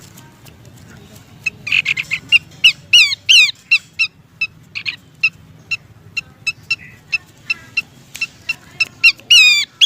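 Horsfield's babbler (pelanduk semak) calls, played as a bird lure: after a quiet second and a half, a run of short, sharp notes at about two or three a second, broken by louder down-slurred chattering notes.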